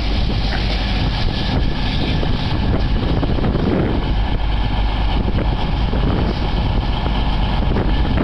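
Steady running rumble of a train on the move, even throughout with a faint steady hum above it.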